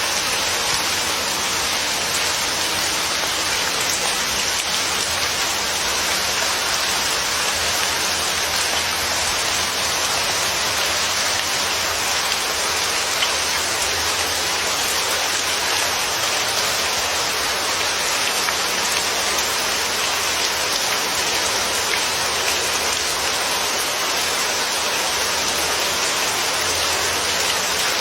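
Steady rain falling and pattering on a surface, an even hiss of drops with no thunder.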